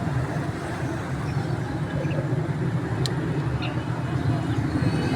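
Steady low rumble of street and market background noise, with one sharp click about three seconds in.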